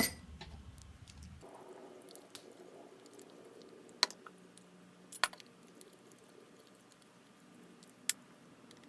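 Spatula working a thick banana and peanut butter stuffing in a bowl, soft squishing with a few sharp clicks now and then.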